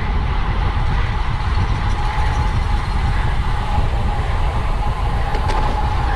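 Steady wind noise on the microphone of a camera on a road bike ridden at race speed, strongest at the low end, with a faint steady whine over it.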